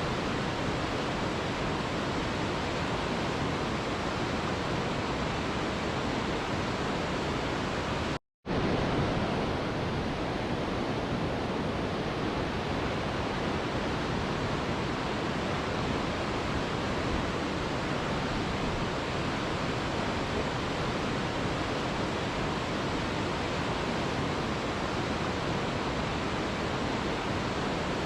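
Mountain river rushing: steady, dense white-water noise with no breaks in the flow. It drops out completely for a split second about eight seconds in.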